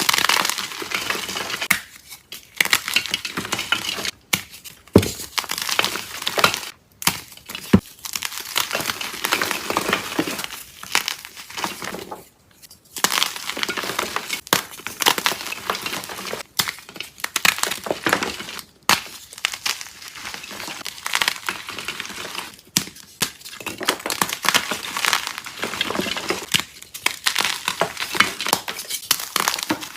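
Round pieces of soft, dyed chalk being crushed, crunching and crumbling in a run of crackly bursts with short pauses between them.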